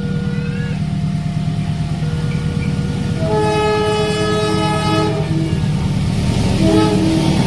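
Locomotive horn sounding a long blast of about two seconds starting some three seconds in, then a short toot near the end, over the train's steady low rumble. Before the horn, the level crossing's electronic warning alternates between two steady tones.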